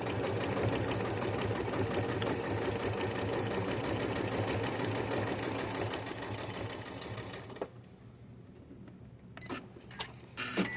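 Janome sewing machine running steadily at speed, its needle mechanism making a rapid, even clatter, then stopping abruptly about three quarters of the way through. A few light clicks follow.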